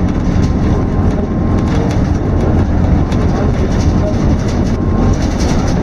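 Scania K230UB single-deck bus heard from inside: a steady engine drone and road noise, with frequent short rattles and clicks from the bus body and fittings.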